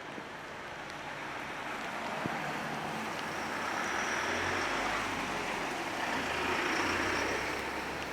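A motor vehicle passing on a wet street: tyre hiss on the wet road with a low engine hum, swelling through the middle and easing off near the end.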